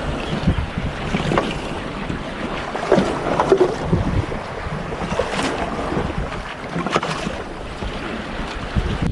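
Strong wind buffeting the microphone over the wash of the sea, with a few short clicks and knocks scattered through.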